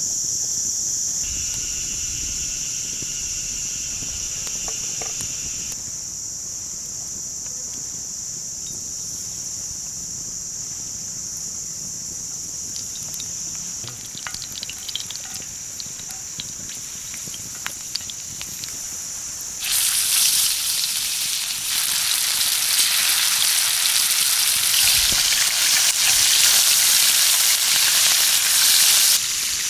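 Insects chirring steadily in a high band, with a few light clicks. About two-thirds of the way through, a loud sizzle of food frying in a pan starts suddenly, then cuts off abruptly near the end.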